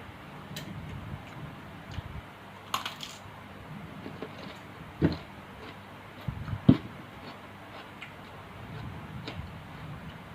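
Scattered small clicks and taps over a low steady background, with two louder knocks, one about five seconds in and one nearly seven seconds in.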